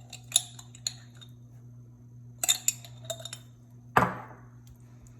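A utensil tapping and clinking against a casserole dish in scattered light strokes, with one louder clink about four seconds in, as pesto is spread over the chicken.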